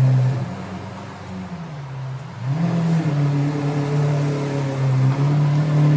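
Lamborghini Aventador LP 750-4 Superveloce's V12 engine running: it eases off briefly, then rises in pitch and gets louder about two and a half seconds in and holds steady.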